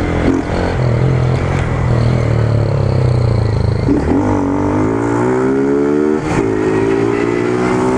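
Honda CG Fan 150's single-cylinder four-stroke engine running through a bare pipe with no muffler, first holding a steady note, then climbing in pitch as it accelerates from about halfway, with a short break a little after that.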